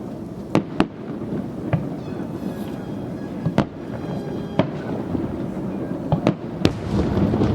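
Fireworks display: aerial shells bursting in a string of sharp bangs, several in quick succession near the end, over a steady low rumble.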